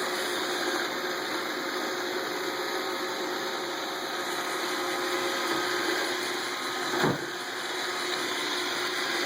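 iRobot Roomba robot vacuum running, its motor and brushes giving a steady whirring hum, with a single thump about seven seconds in.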